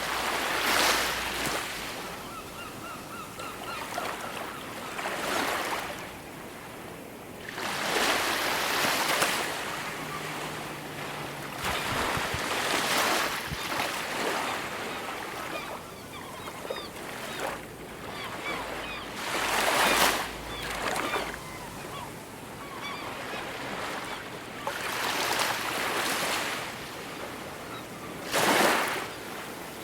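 Ocean waves breaking and washing up a shore, a surge swelling and fading every few seconds. A few faint bird calls come through, a short run of honk-like calls a few seconds in and some faint chirps around the middle.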